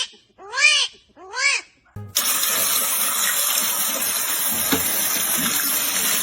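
A cat meows three times, each call rising and then falling in pitch. About two seconds in, an abrupt cut brings in steady running water, as from a tap filling a bath.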